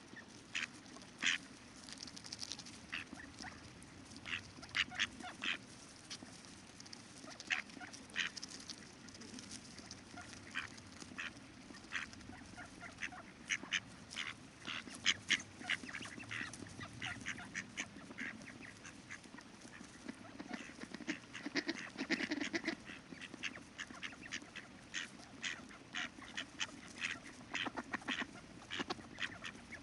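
Ducks quacking and calling in many short, sharp calls, thickest about two-thirds of the way through, over a low, steady sound of running river water.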